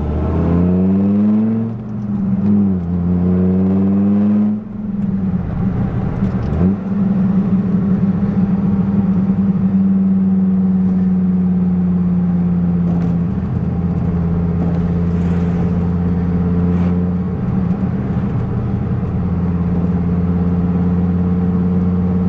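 1997 Dodge Viper GTS's 8.0-litre V10 accelerating: the pitch climbs twice, falling briefly at each upshift of the six-speed manual about two and about four and a half seconds in, then holds steady as the car cruises.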